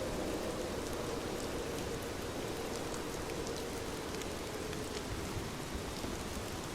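Steady rainfall, an even hiss with scattered distinct drop hits.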